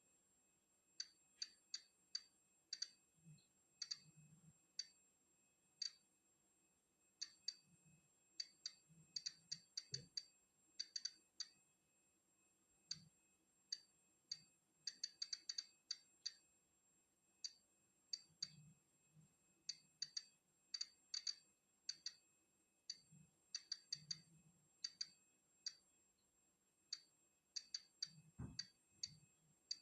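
Polon EKO-C digital Geiger counter clicking at random, irregular intervals, about two clicks a second and sometimes several in quick succession, as it counts natural background radiation. A faint steady high-pitched whine runs underneath.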